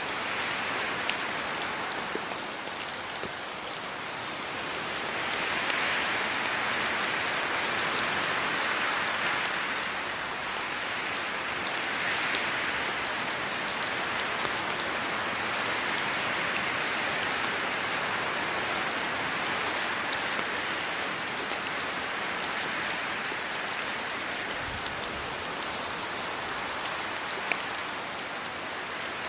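Steady rain falling, a dense hiss of drops on surfaces that swells and eases every few seconds, with occasional sharper single-drop ticks.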